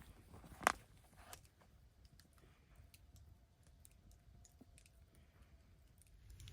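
A few sharp, small clicks and knocks, one much louder than the rest shortly after the start, over quiet background.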